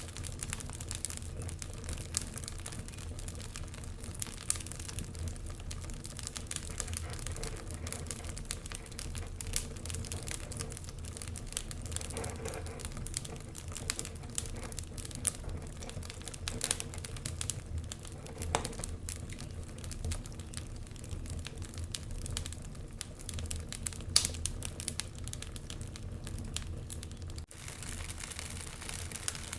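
Wood fire in a fireplace crackling: irregular sharp snaps and pops over a steady low rumble of the flames, with a louder pop about three-quarters of the way through.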